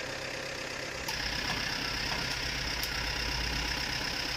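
Truck engine idling steadily. About a second in the sound steps up louder, with a deeper rumble and a high steady whine joining it.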